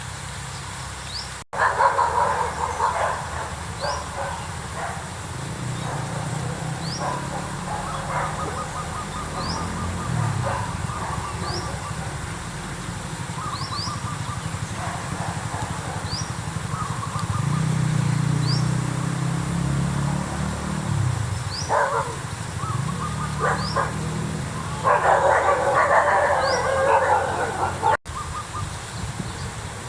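Animal calls: short, high, rising chirps repeat every second or so, with louder bursts of mid-pitched calling near the start and again near the end, over a low hum that comes and goes.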